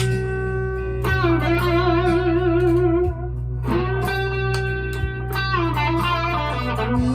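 PRS SE McCarty 594 single-cut electric guitar, overdriven, playing a few long sustained notes, picked roughly every two seconds and held with vibrato. A steady low hum sits underneath.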